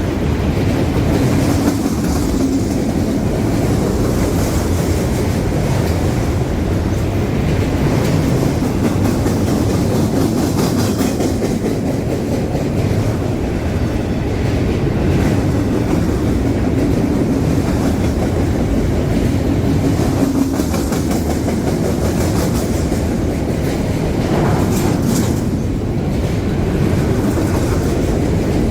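CSX freight train's cars rolling past on the rails: a steady, loud rumble of wheels on track, with a few sharper wheel noises, the clearest near the end.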